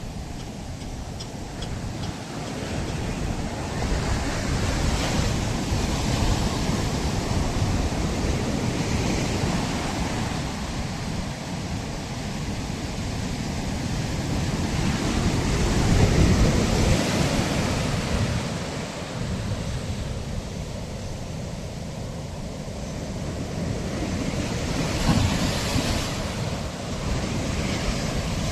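Ocean surf breaking and washing up a sandy beach in a continuous wash, swelling louder with each wave, about three times. Wind rumbles on the microphone.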